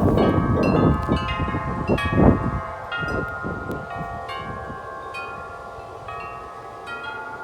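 A group of large tuned wind chimes ringing together in strong wind, many overlapping strikes. A low wind rumble fills the first two and a half seconds, loudest just after two seconds, then drops away while the chimes ring on more softly.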